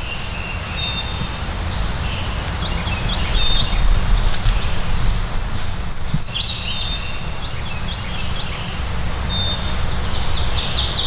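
Several wild songbirds calling and singing in springtime woods: scattered short whistles, a run of quick falling notes about halfway through, and a fast trill near the end. A steady low rumble runs underneath.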